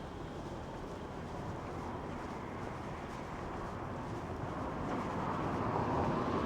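Street ambience of steady traffic noise, growing louder about five seconds in as a vehicle draws near.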